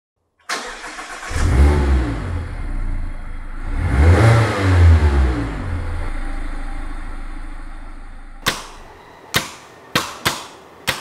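Mazda MX-5's four-cylinder engine starting, catching after a brief crank, then revved twice, each rev rising and falling, before settling to idle and fading. From about eight and a half seconds in, sharp percussive hits of music begin.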